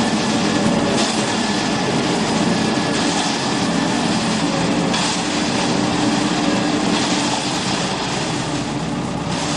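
Self-loading concrete mixer truck running: a steady, loud mechanical rumble and clatter from the machine's engine and turning mixer drum.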